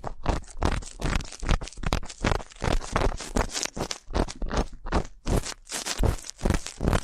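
Ear-cleaning ASMR: an ear pick scraping and rubbing close to the microphone in quick repeated scratchy strokes, about three or four a second.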